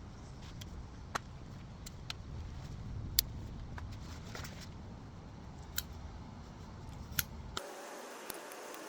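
Roots of a bird of paradise being cut away, root rot trimmed off: a few sharp snips spaced a second or more apart, over a low steady hum.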